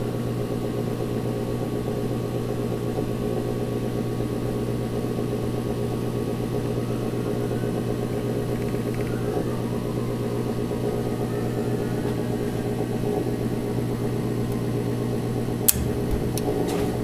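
Gas furnace's draft inducer motor running with a steady hum while the hot surface igniter heats up, partway through the ignition sequence before the burners light. A sharp click sounds near the end.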